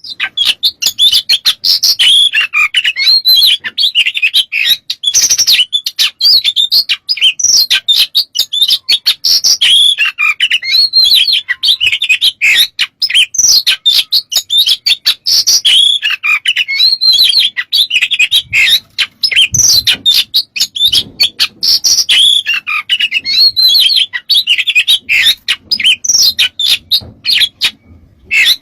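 Oriental magpie-robin (kacer) singing a fast, unbroken string of varied chirps, whistles and trills, full of fill-in notes copied from other birds.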